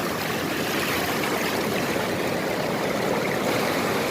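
Steady rush of flowing water from a fast mountain river running through a gold-prospecting sluice box.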